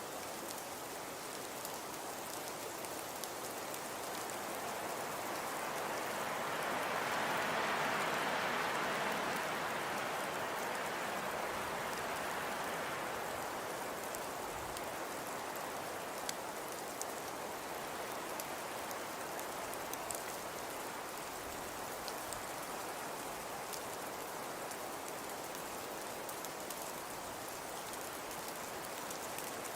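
Fireplace ambience: a steady, dense hiss of a crackling fire. It swells for a few seconds about a quarter of the way in, and a few faint pops stand out later.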